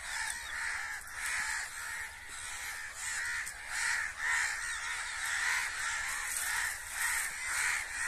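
Birds calling over and over, about two calls a second without a break.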